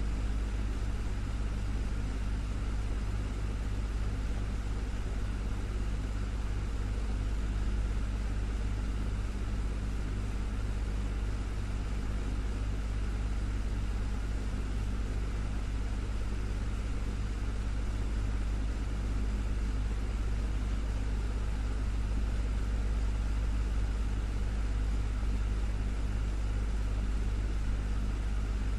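Desktop fan running steadily: a low motor hum under an even rush of air, with no change in speed.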